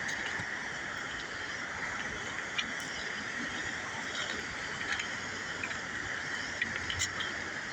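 Steady rushing of river water, with scattered light clicks at irregular times.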